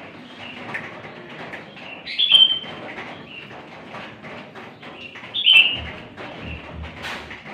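A bird calling: a loud, short call falling in pitch, given twice about three seconds apart, over a background of fainter chirping.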